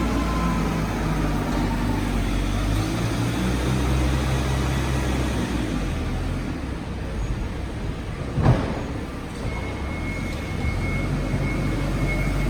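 A vehicle engine running steadily, with a single sharp knock about eight and a half seconds in.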